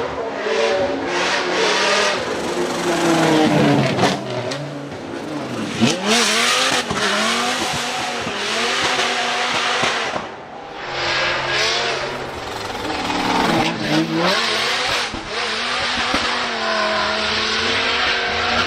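Drift car's engine revving hard, its pitch rising and falling again and again through a slide, over a steady hiss of tyre noise. There is a short lull about ten seconds in.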